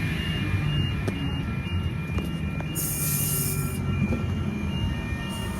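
Oscar H-set electric passenger train standing at the platform, its equipment running with a steady low rumble. A regular series of short high beeps sounds throughout, and a brief hiss of air comes about halfway through.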